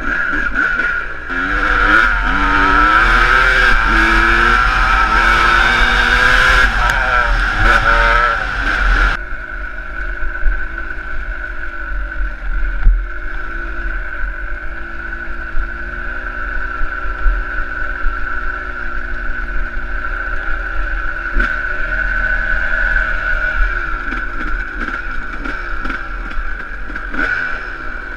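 Motocross bike engine revving up and down as it is ridden, the pitch rising and falling every second or two. A loud rushing hiss over it for the first nine seconds stops suddenly.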